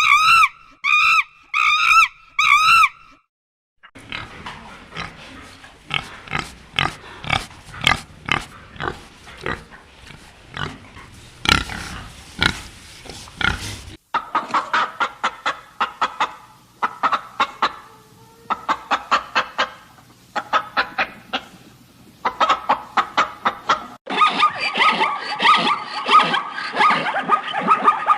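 A series of separate animal recordings cut one after another: a few repeated high calls at the start, then a pig grunting in short irregular bursts for about ten seconds, then other animal calls in quick rhythmic runs.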